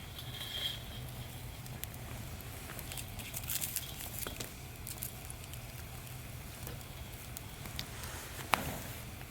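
Wood fire crackling in a small fire pit, with scattered sharp pops and one louder pop near the end, over a steady low hum.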